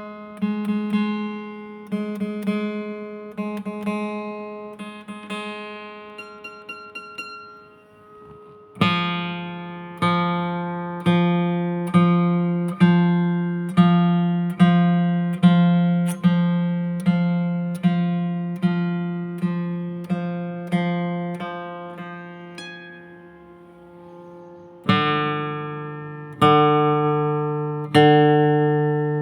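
Guitar music: lightly picked notes at first, then, from about nine seconds in, strummed chords on a steady beat a little under one a second, with a change of chord near the end.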